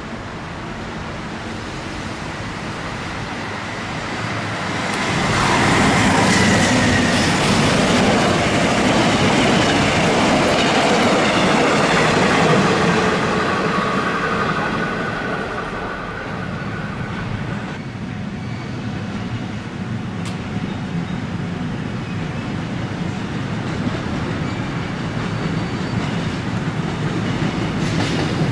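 A train passing through a station, wheels clattering on the rails. It grows loud about five seconds in, with a steady high whine for a few seconds, then fades, and another train starts to build up near the end.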